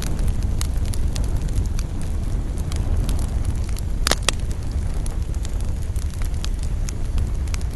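Wood fire crackling, with frequent sharp pops over a steady low rumble of the flames. A louder pop, quickly followed by a few more, comes about four seconds in.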